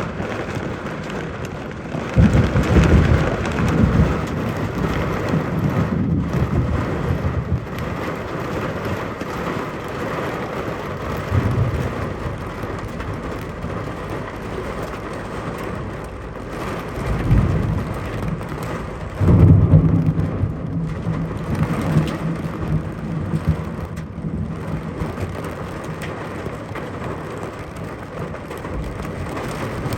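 Heavy rain falling steadily, with low rumbles of thunder swelling several times: about two seconds in, near the middle, and twice in the second half.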